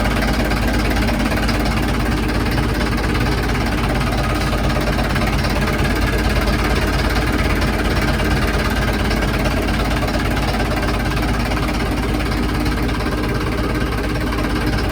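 Boat engine of a Yanmar ZG26AP idling steadily after being started, an even running sound with no change in speed.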